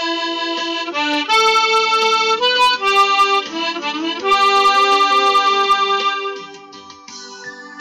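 Harmonica playing a melody in held, reedy notes rich in overtones. About six seconds in the harmonica stops, and a quieter keyboard accompaniment carries on.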